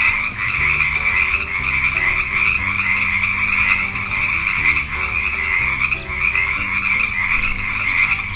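Frogs croaking in a dense, continuous chorus.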